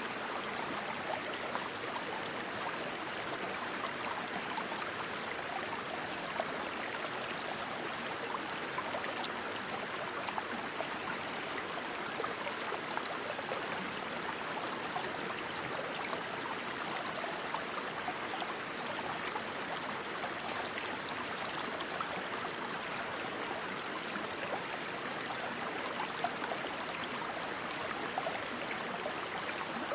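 Steady rushing water of a fast-flowing stream. Short high chirps come over it every second or so, with quick runs of them near the start and about two-thirds of the way through.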